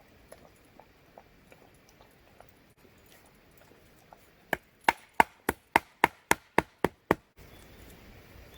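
About ten quick, sharp strikes on wood, roughly four a second, beginning about halfway through and stopping abruptly. Faint small clicks of handling come before them.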